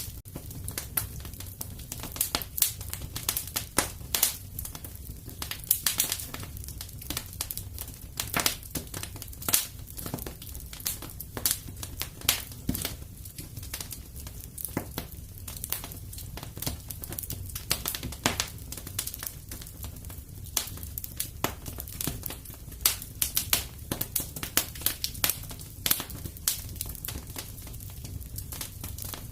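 Wood fire crackling in a fireplace: irregular sharp pops and snaps, several a second and varying in loudness, over a steady low rumble of the flames.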